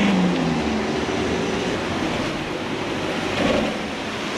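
Street traffic noise: a steady rush of passing vehicles.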